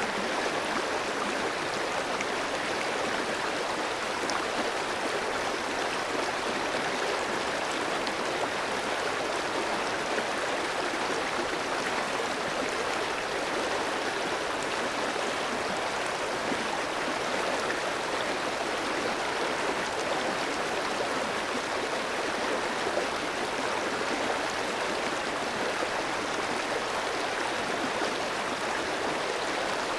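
Clear stream running steadily over rocks, a continuous even rush of flowing water.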